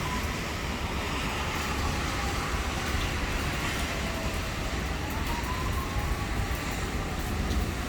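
Steady rushing noise of heavy wind and rain in a thunderstorm, with a strong low rumble of wind buffeting the microphone.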